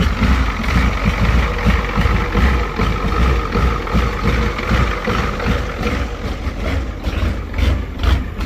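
Ford 6.9 L IDI naturally aspirated V8 diesel idling, loud and rowdy, with a steady rapid low pulsing and a steady higher whine above it.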